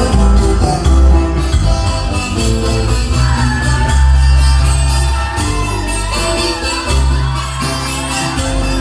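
Live band playing Latin music in an instrumental passage, with a heavy bass line and steady percussion.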